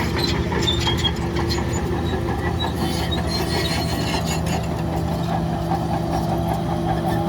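Bulldozer's diesel engine running steadily under load, with frequent metallic clanks and brief high squeaks from its steel tracks and running gear.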